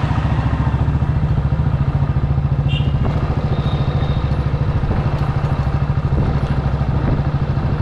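Small two-wheeler engine running steadily, heard close up from on board: a fast, even, low throb.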